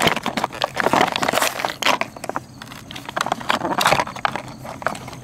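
A toy truck's plastic blister pack and card backing being pried and torn open by hand: a dense, irregular run of crackles, crinkles and scrapes.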